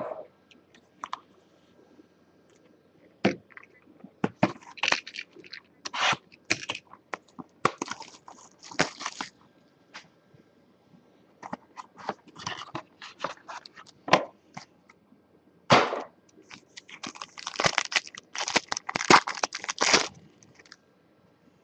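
Sealed trading-card boxes and packs being torn open and handled: irregular bursts of crinkling plastic wrap and scraping cardboard, with a few sharp clicks.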